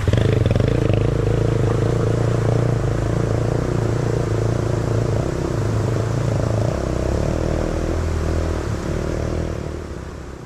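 Small single-cylinder dirt bike engine running as the bike is ridden, its pitch shifting slightly about a second in and otherwise fairly steady, fading away near the end.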